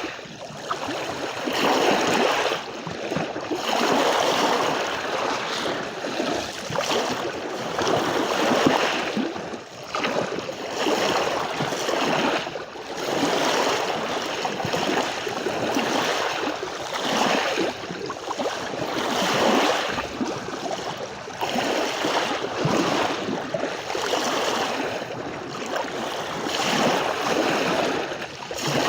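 Waves breaking and washing on a beach, the surf swelling and easing every two to three seconds.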